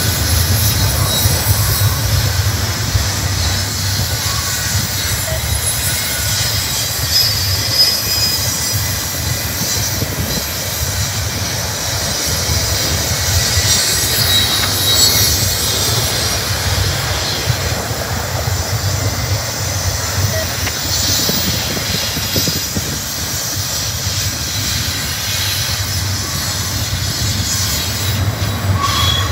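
Loaded double-stack intermodal well cars rolling past close by: a steady rumble of steel wheels on rail, with a few brief high wheel squeals.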